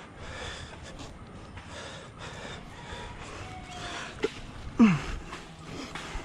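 A person breathing hard in repeated noisy breaths close to the microphone, with a short knock just after four seconds and a loud grunt falling in pitch about five seconds in.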